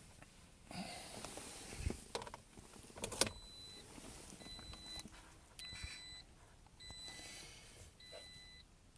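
Car interior: a few clicks and knocks of handling, then a dashboard warning chime that beeps steadily for about half a second, roughly once a second. This fits the ignition being switched on before a cold start with no preheating.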